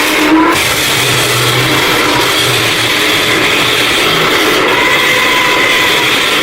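A power tool motor running continuously, with a faint steady whine over a broad grinding noise.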